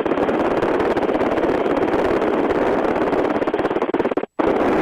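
RotorWay A600 Talon helicopter's engine and rotor in flight, a steady pulsing cockpit noise heard through the headset intercom, thin above the midrange. It cuts out for a moment near the end and comes straight back, as the intercom mic gates.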